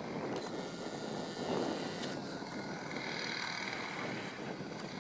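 Two-stroke petrol engine of a large radio-controlled Piper model aircraft (3W 157 cc) droning in flight, its higher engine notes coming up more clearly about halfway through.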